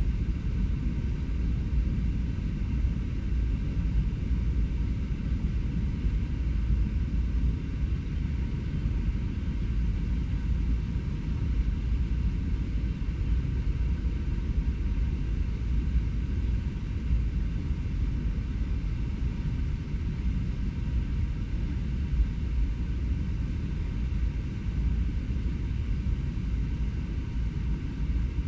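Steady low rumble of urban background noise, mostly distant traffic, unchanging throughout.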